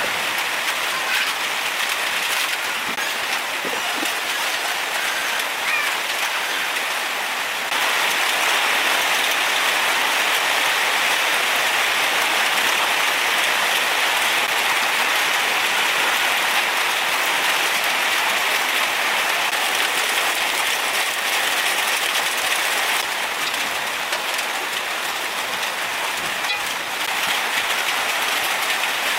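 Steady rain falling, an even hiss with small scattered drop ticks; it grows louder about eight seconds in and eases again near the end.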